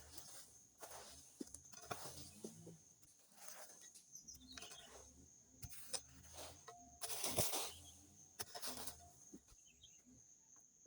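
Repeated rustling swishes of brush and dry vegetation being cleared, about one every second and a bit, the loudest about seven seconds in, over a steady high tone.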